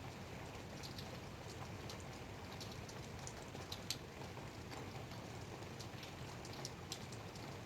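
Light rain falling steadily, with many separate drops ticking irregularly on a hard surface; one drop about four seconds in is louder than the rest.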